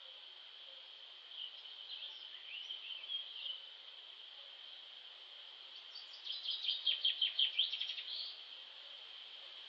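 Small songbirds chirping: a few scattered calls, then a quick run of chirps, about seven or eight a second, lasting about two seconds, over a steady high hiss.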